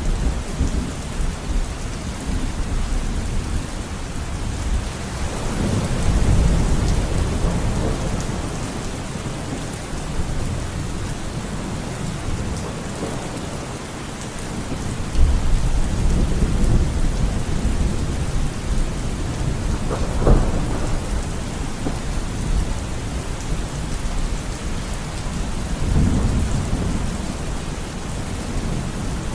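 Steady rain falling, with thunder rumbling in several low swells and one sharper crack about two-thirds of the way through.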